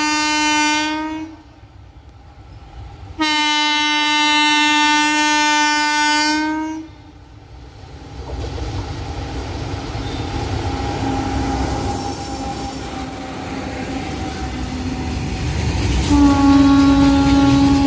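WAG-7 electric locomotive's air horn sounding: a blast that ends about a second in, then a long blast of about three and a half seconds. The BOXN freight train's rumble then grows louder as it approaches, and another horn blast starts near the end.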